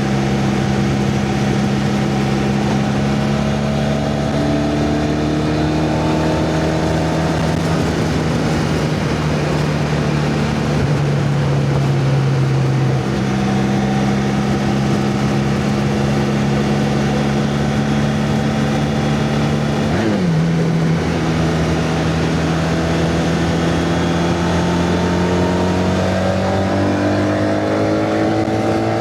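Honda motorcycle engine running under way, its pitch climbing slowly as it pulls through the gears. It drops sharply once about twenty seconds in at a gear change, then climbs again.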